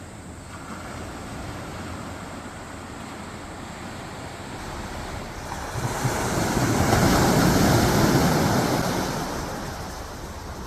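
Quiet waves washing onto a sandy beach: a low steady wash, then one wave swelling about six seconds in, surging up the shore and ebbing away near the end.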